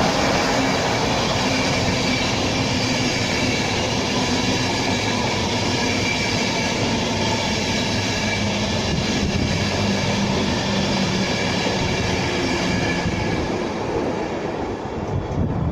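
A train running through the station, a steady rail noise with a whine over it that eases slightly near the end.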